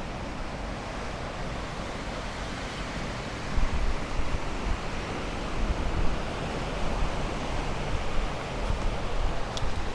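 Steady wash of sea surf with wind gusting on the microphone, the gusts swelling unevenly a few times.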